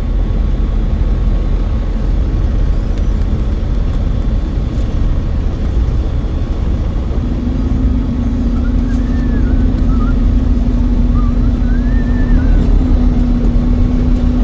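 A truck on the road: steady low engine and road rumble. About halfway in, a steady hum joins it and holds.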